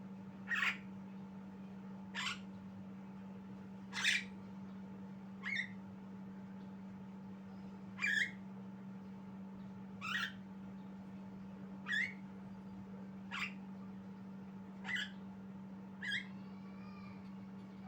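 Javan myna giving short, high calls over and over, about every one and a half to two seconds, each one sweeping quickly downward, with a few softer chirps near the end. A steady low hum sits underneath.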